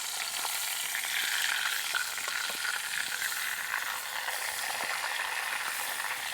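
Steak frying in a pan over a campfire: a steady sizzling hiss peppered with small crackles and pops.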